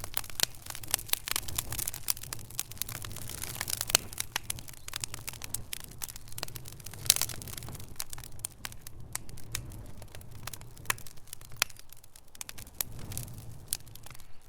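Wood fire in a fireplace crackling: dense, irregular pops and snaps, with two louder pops about four and seven seconds in, over a low steady rumble.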